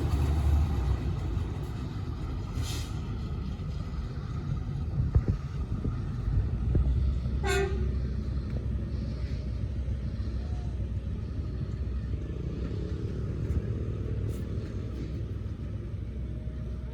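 Low, steady rumble of an approaching train, with one brief toot about seven and a half seconds in.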